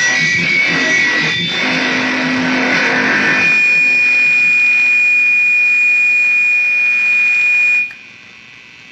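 Noise music: a loud, dense distorted texture through effects, with a steady high whine held over it. It cuts off suddenly near the end, leaving a faint hum.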